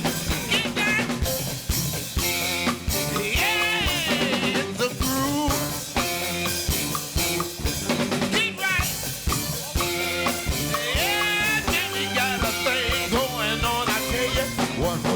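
Live band playing an up-tempo rock and roll groove between sung lines: a drum kit with a snare backbeat and rimshots, under a lead line of bending notes.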